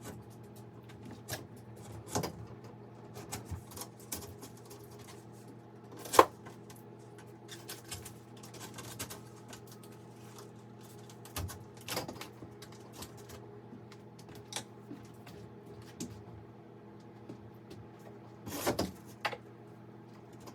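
Scattered sharp knocks and clicks of hard objects being handled, over a steady low hum. The loudest knock comes about six seconds in.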